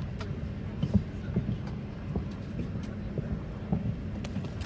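Airliner cabin on the ground during boarding: a steady low hum of the air conditioning with scattered light clicks and knocks.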